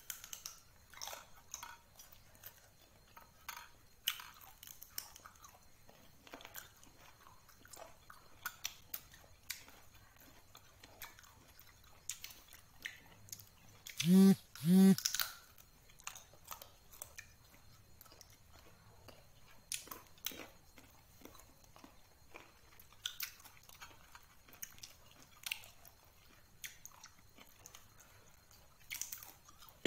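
Close-up chewing and eating mouth sounds: scattered soft smacks and clicks throughout. Two short, loud pitched sounds come about halfway through, close together.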